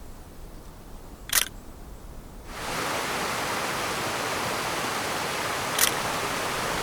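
Camera shutter clicking twice, once about a second and a half in and again near six seconds. A steady rushing noise comes in at about two and a half seconds.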